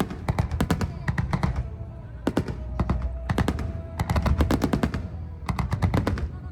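Fireworks display: salvos of rapid sharp cracks and bangs, coming in clusters roughly every second, over a continuous low rumble of shells going up and bursting.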